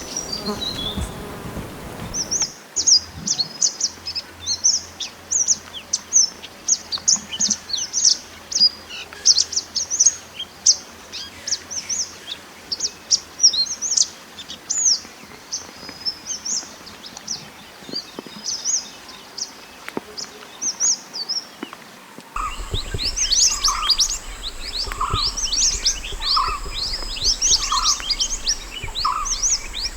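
A mantenan gunung sings a fast stream of high, sharp chirps and twitters. About two-thirds of the way through the recording changes: a low hum and a steady high tone come in, and a lower note repeats about once a second beneath the chirping.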